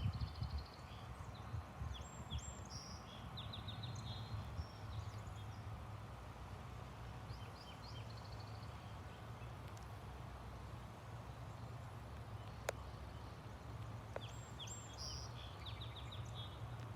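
Birds chirping in short, quick series of high notes, over a faint steady low rumble, with a single sharp click about thirteen seconds in.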